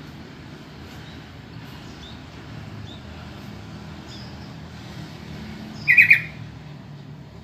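Sooty-headed bulbul giving one short, loud call of three quick notes about six seconds in, with a few faint chirps earlier, over a steady low rumble.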